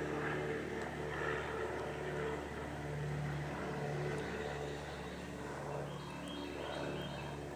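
A motor running steadily: a low hum whose tone swells and fades every second or so.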